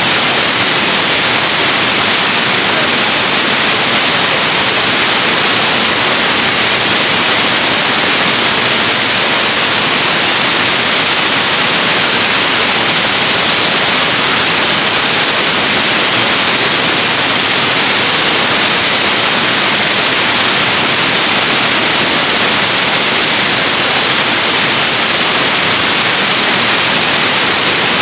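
Waterfall: a steady rush of falling water, an even hiss with most of its weight in the upper range, unchanging in level.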